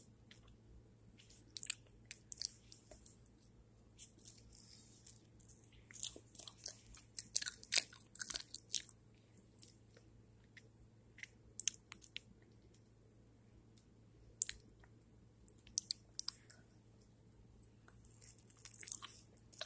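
Faint chewing and lip-smacking mouth sounds: scattered short wet clicks that come in clusters, with a lull around the middle.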